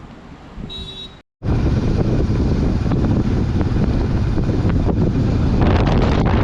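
Wind buffeting the microphone on a moving motorbike, a loud, steady low rumble that starts abruptly about a second and a half in. Before it there is a short quieter stretch with a brief high beep.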